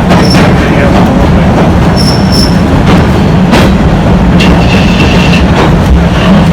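Excursion train cars rolling along the track with a steady loud rumble and occasional clanks, the wheels squealing briefly several times: twice early and once for about a second past the middle.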